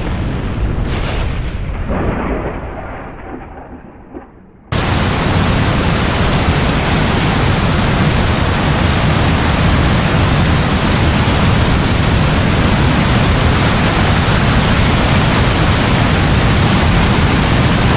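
A thunderclap crackles and rolls, with a few sharper cracks in the first two seconds, then fades away. Just before five seconds in, heavy rain comes in abruptly as a dense, steady downpour.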